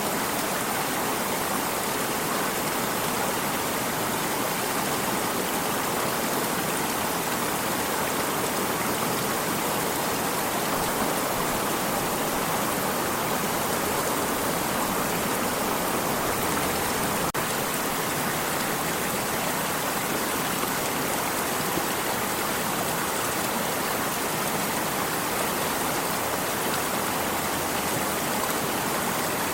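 Water stream flowing steadily: an even, unbroken rush of running water.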